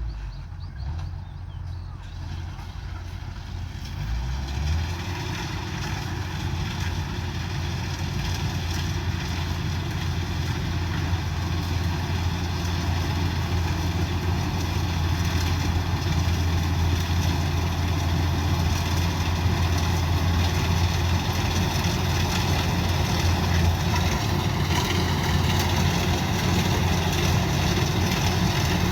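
Combine harvester's diesel engine running steadily with a deep hum, growing louder from about four seconds in and then holding.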